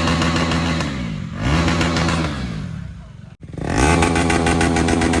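KTM 390 Duke's single-cylinder engine, fitted with a modified exhaust, being revved in blips: the exhaust note rises and falls in pitch about three times, with a sudden break just after the middle.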